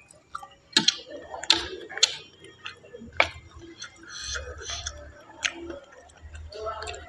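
Close-miked chewing of mushrooms: wet mouth smacks with a handful of sharp clicks spread about a second apart.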